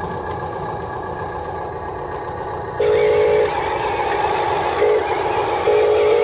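A Huina 1573 radio-controlled toy dump truck's electric motor whirring steadily. About halfway through it gets louder, and three short horn-like toots sound, the last one longer.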